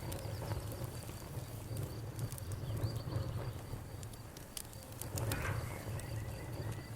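Crickets chirping in a steady high pulsing trill over a bonfire crackling, with scattered sharp pops and a low steady rumble.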